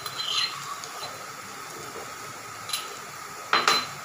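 Hot oil sizzling steadily under frying sliced onions and crushed ginger-garlic, with a few short sharp sounds, the loudest near the end.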